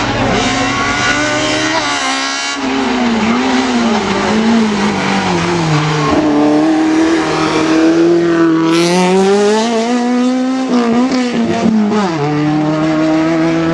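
A small race car's engine revving hard through a cone slalom, its note rising and dropping over and over as the car weaves between the cones. Near the end a steadier engine note takes over.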